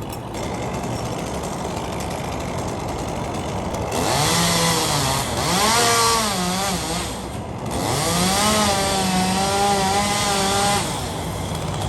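Two-stroke chainsaw running at low speed, then throttled up into a cut about four seconds in. Its engine note rises and sags as the chain loads in very hard Australian pine (ironwood) that cuts slowly, then holds high before dropping back near the end.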